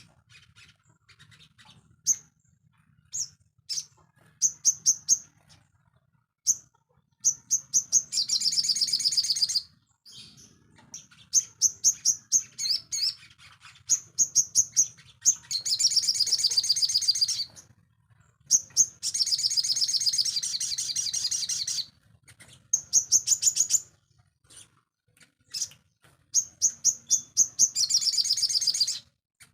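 Sogon songbird singing: runs of sharp, high chirps broken by dense, fast trills lasting one to three seconds, about five times.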